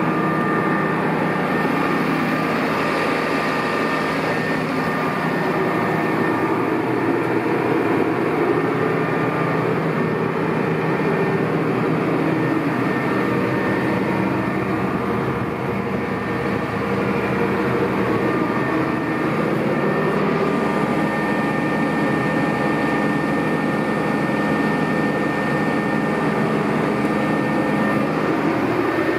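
Engine of a 2008 McCormick XTX 200 Xtraspeed tractor, running steadily at a constant speed.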